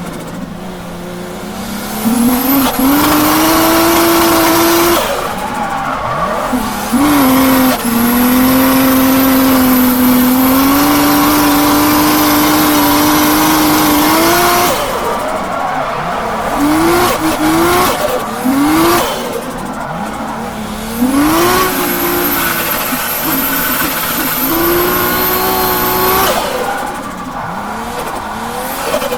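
Toyota JZX Tourer's turbocharged straight-six held at high revs through drifts, the pitch dropping and climbing again between stretches, with short rev blips partway through and tyres squealing. The driver says the engine is misfiring.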